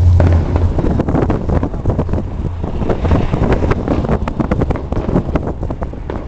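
Low, steady car rumble with a rapid run of pops and crackles from fireworks outside, growing thicker about halfway through.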